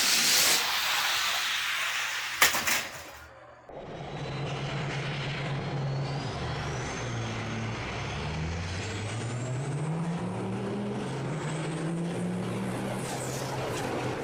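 Semi truck sound effect: a loud air-brake hiss, a sharp click, then a diesel truck engine pulling away and running up through the gears, its pitch climbing and dropping back in steps.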